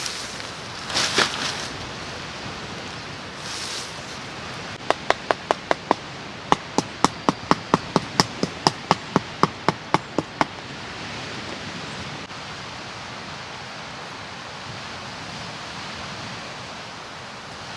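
A run of sharp knocks, about four a second: a short run of six, a brief pause, then about sixteen more, over a steady outdoor hiss of wind or water.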